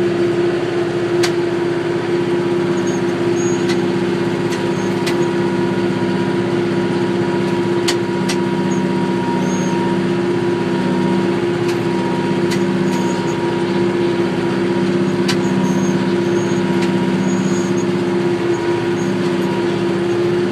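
McCormick GX50 utility tractor's engine running steadily under load while driving a 5-foot brush hog (rotary mower). Occasional sharp clicks come through over the drone.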